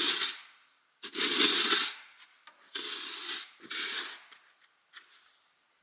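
A series of about five rough scraping strokes, each lasting up to about a second, with short pauses between them.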